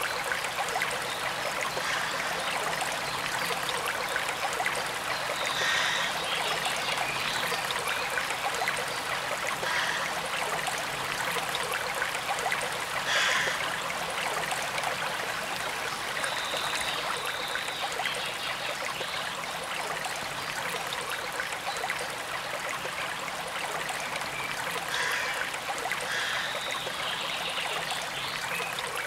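A forest stream running steadily: a continuous rush and trickle of water, with a few brief high-pitched sounds now and then over it.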